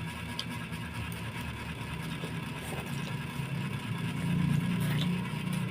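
A motor engine running with a steady low hum that grows louder about four seconds in.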